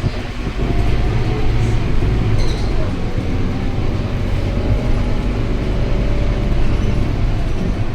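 Scania K230UB bus running on the road, its diesel engine and drivetrain giving a steady low hum with a faint whine that comes and goes.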